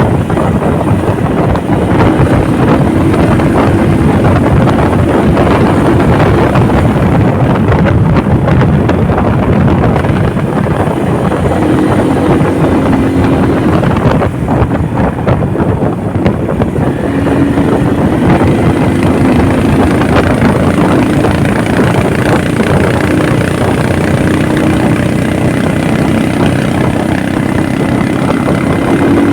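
Motorcycle engine running on the move, its note rising and falling several times, under heavy wind rush on the microphone.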